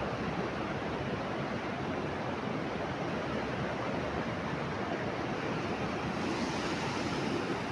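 Steady rushing noise with no distinct events; a brighter hiss joins it about six seconds in.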